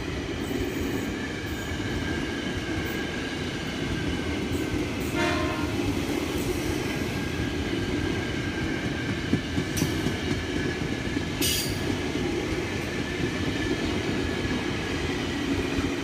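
Train running past on the line: a steady rumble of wheels on rail with faint steady whining tones, a short sharp sound about five seconds in, and two brief high clicks later on.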